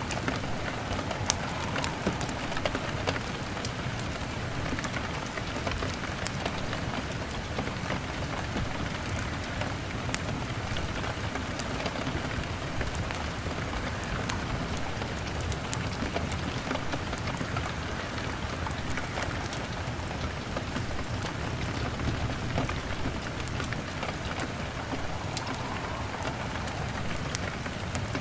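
Steady rain on a window glass, mixed with the scattered sharp crackles of a wood fire.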